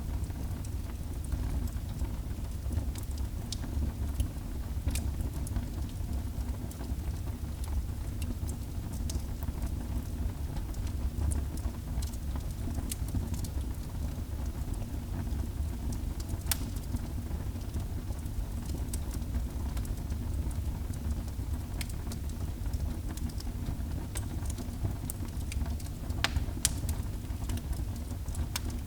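Wood fire burning in a fireplace: a steady low rumble with scattered sharp crackles and pops, and a few louder snaps around the middle and near the end.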